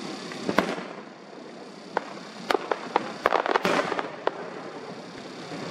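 Aerial firework shells bursting: one sharp bang about half a second in, then a quick run of bangs and cracks from about two to four seconds in.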